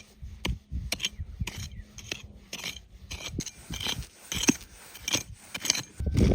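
Small clicks, taps and short scrapes of hand work with utensils during food preparation, a few a second and irregular.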